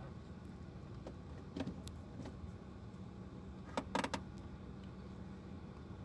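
Steady low hum inside a car cabin, with scattered sharp clicks and a quick run of louder clicks about four seconds in, the sound of switches, keys or a door latch being worked.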